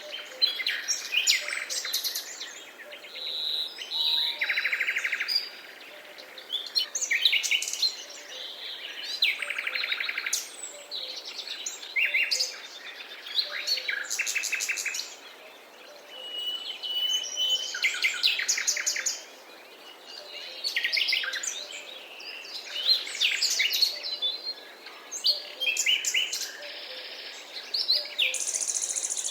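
Several songbirds singing and calling over one another, with quick rattling trills, short chirps and whistled notes coming one after another.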